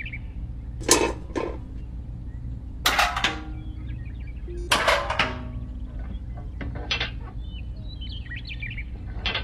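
Miniature metal buckets of sand and cement being lifted and set down on a board, followed by a small metal pole: a handful of sharp clinks and knocks over a steady low hum.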